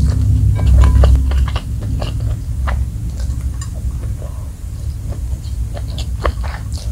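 Close-miked eating by hand: wet chewing and mouth clicks, with fingertips picking up grains of spicy fried rice from a glass plate. Under it runs a loud, steady low rumble, strongest in the first second and a half.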